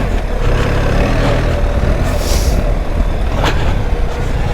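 BMW R 1300 GS Adventure's boxer-twin engine running as the motorcycle is ridden slowly through deep sand, with a steady low rumble. There is a brief hiss a little past halfway and a sharp knock about three and a half seconds in.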